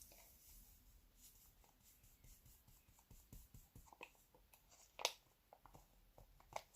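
Near silence with a few faint, light clicks, the loudest about five seconds in.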